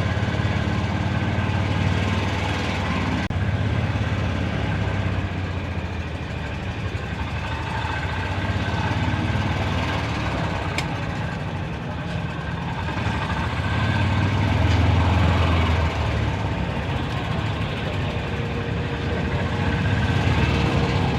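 A vehicle engine running steadily with a low, continuous hum that swells a little more than halfway through.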